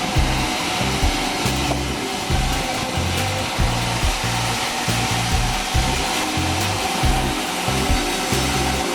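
Sawmill saw running steadily as it cuts meranti timber, a continuous rushing noise with a thin steady whine, over background music with a pulsing bass line.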